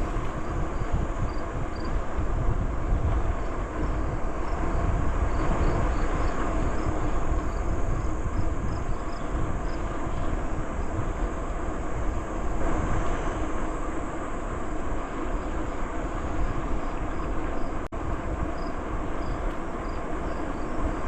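Steady rushing of wind on the microphone and tyre noise from a moving bicycle, with faint short high chirps repeating in the background.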